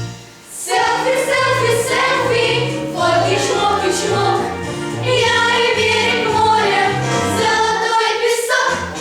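A song sung by a group of voices over a backing track with a steady, pulsing bass line; the music dips briefly about half a second in, then carries on.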